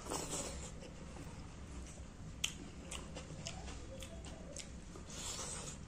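A person chewing a mouthful of rice and fish curry close to the microphone, with wet smacking clicks of the lips and tongue that come several in a row in the middle. A breathy hiss comes at the start and again near the end.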